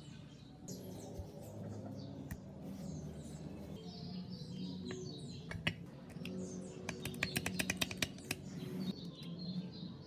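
Small birds chirping repeatedly in short falling notes over a steady low hum. A quick run of sharp clicks comes about seven to eight seconds in.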